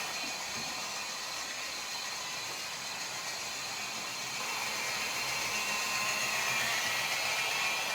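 Model railway locomotive, a large Prairie tank engine, running with six coaches: a steady electric-motor whir and track noise, getting slightly louder near the end.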